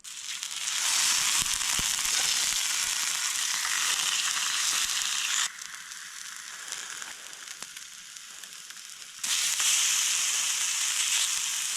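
Grouse breast meat sizzling as it fries over a campfire: a dense hiss that drops off suddenly about halfway through and comes back loud near the end.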